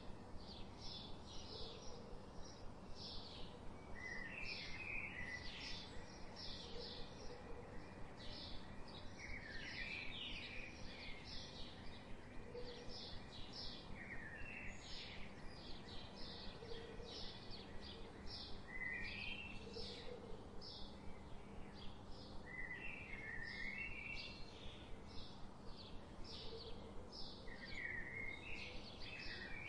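Birds chirping: short high chirps repeat evenly about three times a second, and a brief warbling phrase breaks in every few seconds.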